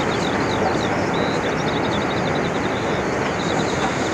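Steady rumble and clatter of a steam-hauled heavy freight train running past, from a 1950s archive recording of a real Great Western train, with small birds chirping throughout.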